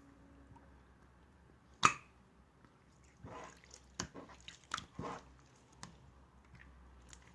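Slime being squeezed and pressed by hand: a sharp pop about two seconds in, then a run of wet squishing and small clicking pops from trapped air.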